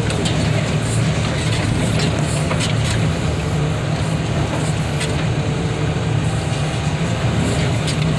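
Heavy diesel equipment running steadily at a constant engine speed, with a few faint metallic knocks.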